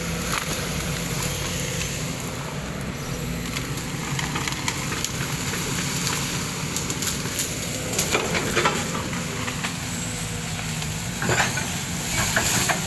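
Heavy machine's engine running steadily while it pushes over an oil palm trunk, with bouts of crackling and snapping from the palm and its fronds, clustered about two-thirds of the way in and again near the end.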